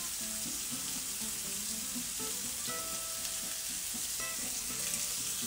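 Breaded chicken cutlets frying in oil in a nonstick frying pan, a steady sizzle.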